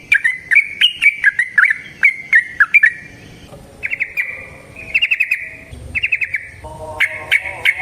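Yellow-vented bulbul (trucukan) singing: loud, bubbly warbled notes for the first few seconds, then fast trilled runs of rapid notes. A lower-pitched call joins near the end.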